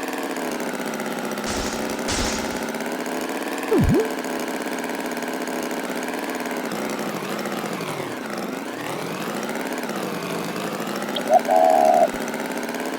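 Cartoon tractor engine running steadily, its pitch dipping and rising again near the middle. A quick sliding glide sounds about 4 s in, and a short high-pitched sound comes near the end.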